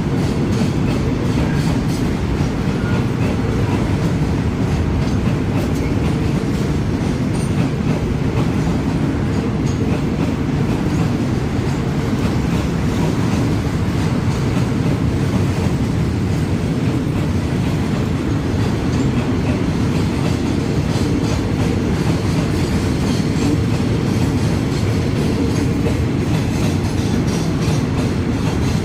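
Long freight train of crude oil tank wagons rolling past at close range: a steady, loud rumble of steel wheels on the rails, with clickety-clack over the rail joints.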